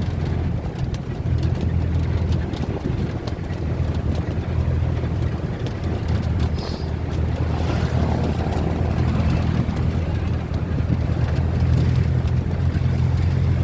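Steady low rumble of a moving vehicle's engine and road noise, with wind buffeting the microphone.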